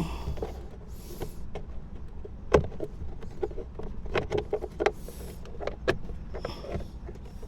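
Hard plastic clicks, knocks and brief rustles as the plastic parts behind a car's glovebox, around the cabin air filter housing, are pried and worked loose by hand, with one sharper knock about two and a half seconds in.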